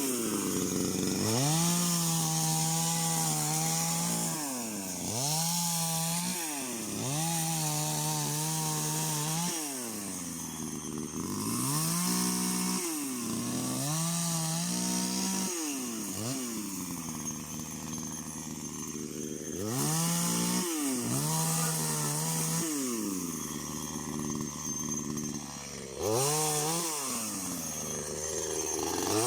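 Two-stroke chainsaw revving up to full throttle again and again, holding a steady high note for a second or two each time, then dropping back toward idle between cuts.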